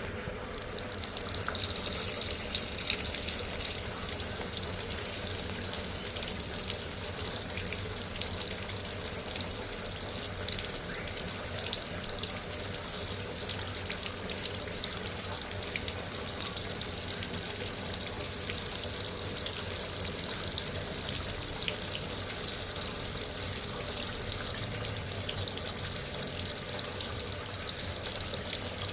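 Sharp washing machine taking in water, a steady rush of water running into the tub.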